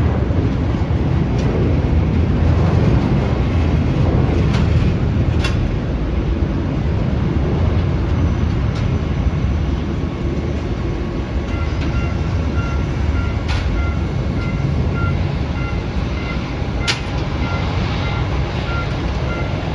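Jet aircraft engine noise: a loud, deep, steady rumble that eases slightly near the end, with a few sharp clicks and, from about twelve seconds in, a repeating high beep.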